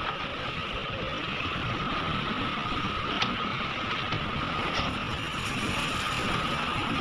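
Heavy earthmoving machinery running steadily: a diesel rumble with a steady high whine over it, and one sharp click about three seconds in.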